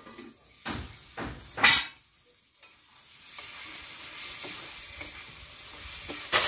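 Three clattering knocks in the first two seconds as the lid comes off the wok. From about three seconds in, a steady sizzle as mutton liver is stirred and fried in spiced oil with a spatula. The sizzle grows louder at the very end.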